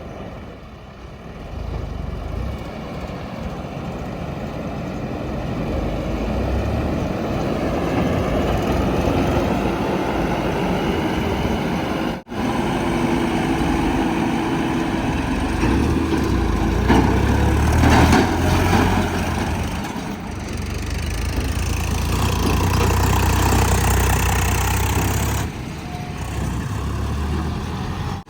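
Heavy diesel engines of earth-moving and haulage vehicles running, the revs rising and falling as they work. The sound drops out suddenly for an instant about twelve seconds in.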